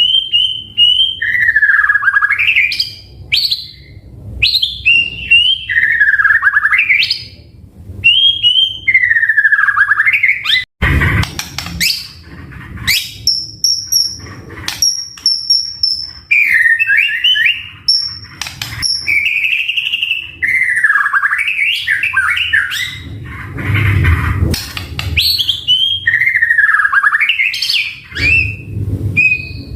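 White-rumped shama (murai batu) singing loudly: repeated swooping whistled phrases that dip and rise, with a run of high thin held notes partway through.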